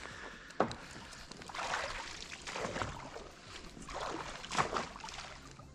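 Water sloshing and lapping in a few soft swells, with a single sharp click about half a second in.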